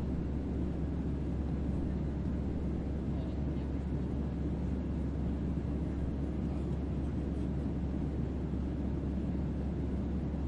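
Steady low hum of a sci-fi spaceship-interior ambience: a deep bass drone under an even rumbling noise, unchanging throughout.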